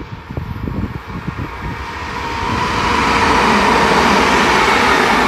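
Class 377 Electrostar electric multiple unit passing at speed, the rushing wheel-on-rail noise swelling from about two seconds in and staying loud. Wind buffets the microphone during the first two seconds.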